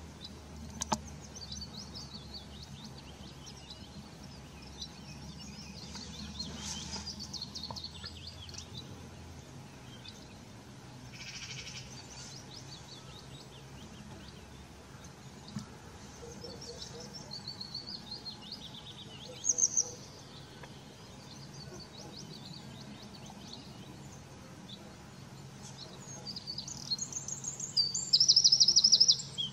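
Small birds chirping and singing outdoors, scattered high notes throughout, with a louder burst of rapid high-pitched notes near the end.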